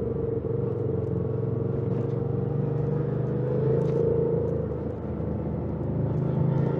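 Yamaha MT-07's 689 cc parallel-twin engine with stock exhaust running under way, heard from the rider's helmet. The revs swell a little about four seconds in, ease off about a second later, then pick up again near the end.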